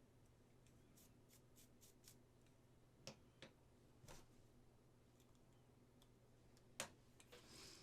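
Near silence with a few faint, scattered clicks and a brief light scrape near the end, as small tools and parts are handled at a workbench.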